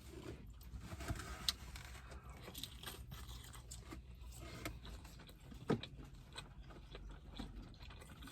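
Close-up eating sounds: chewing and biting food, with scattered small crunches and clicks, over a faint steady low hum.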